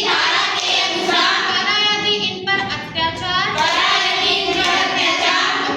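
Children singing, with long held notes.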